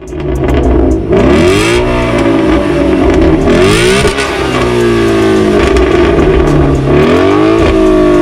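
A car engine revved hard about three times, the pitch climbing with each rev and falling back between.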